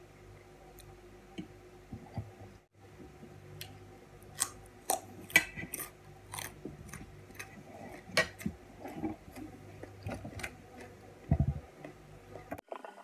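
Close-miked chewing of raw vegetables such as carrot and cucumber: an irregular run of crisp crunches and mouth clicks, with a low thump near the end.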